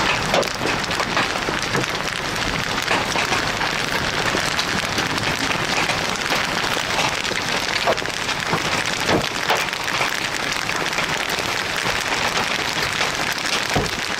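Large hailstones, some near golf-ball size, pelting down in a dense, steady clatter on hard surfaces, with many sharper individual impacts standing out.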